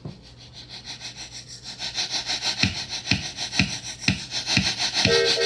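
A vinyl LP starting to play: a click as the stylus drops, then the record's opening rises in a rushing hiss with regular chugs about two a second, like a steam train. A steady chord comes in near the end.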